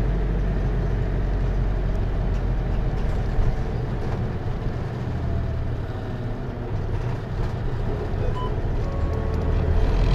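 Hino Liesse microbus's J05C diesel engine heard from inside the bus cabin, running steadily under automatic transmission with road noise. It eases off a little in the middle and picks up again near the end.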